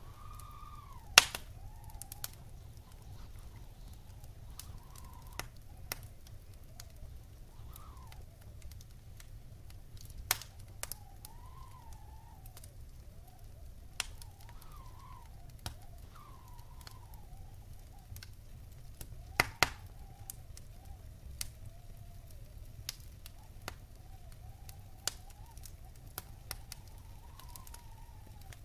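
Wood fire crackling in a fireplace: scattered sharp pops and snaps, the loudest about a second in and a quick double pop about twenty seconds in, over a low steady rumble. A faint high whistle rises and falls in the background.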